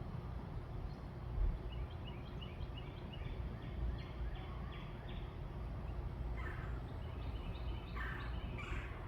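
Backyard birds calling over a steady low rumble: a quick run of short notes, then a few louder, harsher calls near the end.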